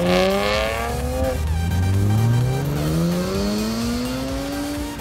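BMW E46 M3 convertible launching hard: a brief tyre squeal as the rear wheels spin, the straight-six revving up, a short break for an upshift about a second and a half in, then rising again through the next gear as it drives off. Electronic background music runs underneath.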